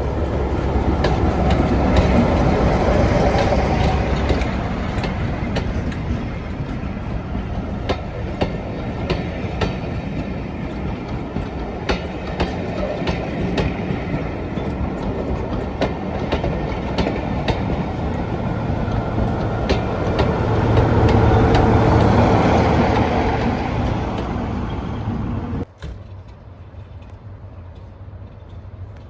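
Heritage diesel locomotive-hauled train running, with engine noise and wheels clicking over rail joints. It is loudest a little over two-thirds of the way through, then cuts off abruptly near the end.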